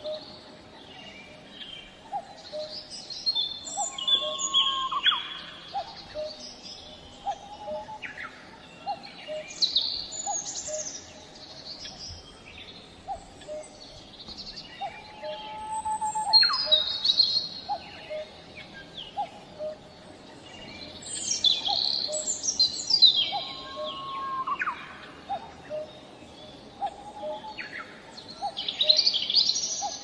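Wild songbirds singing in woodland: a loud song of quick sweeping, rising and falling notes repeats every five or six seconds, over a steady series of short low calls about once a second.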